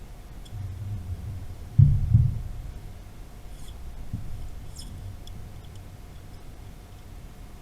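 Two dull low thumps close together about two seconds in, after a brief low rumble, with a smaller knock a couple of seconds later and a faint steady hum underneath.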